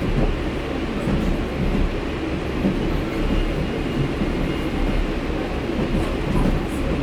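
Passenger train running along the track: a steady rumble of wheels on rails.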